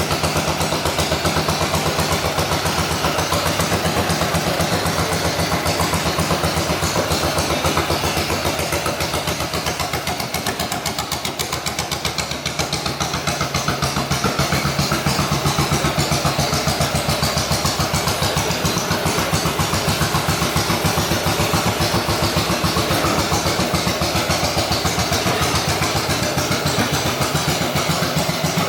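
Yamaha DragStar 1100's air-cooled V-twin engine running steadily at low revs with a rapid, even exhaust pulse, easing slightly about halfway through.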